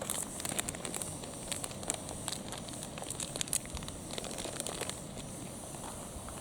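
Wood fire burning in a fire pit, crackling with irregular sharp pops and ticks over a faint steady hiss.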